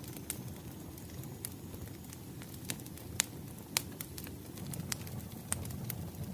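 Firewood crackling: scattered, irregular sharp pops, the two loudest near the middle, over a low steady rumble of the burning fire.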